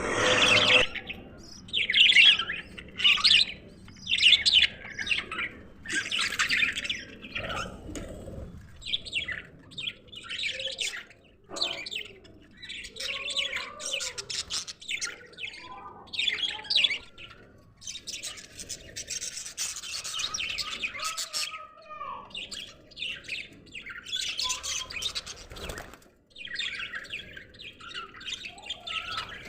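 Budgerigars chattering and warbling in repeated short bursts with brief pauses between.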